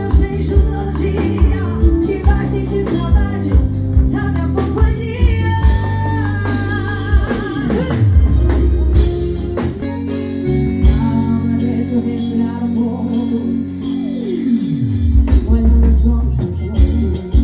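Live band music with singing over a strong, steady bass line. A falling swoop of pitch sounds twice, about seven seconds in and again about fourteen seconds in.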